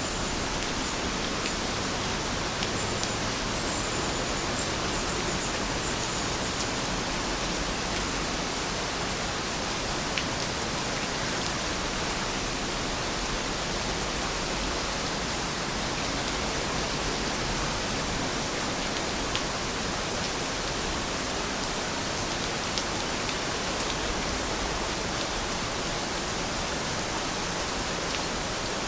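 Steady rain: an even hiss of falling rain with occasional sharper drop ticks.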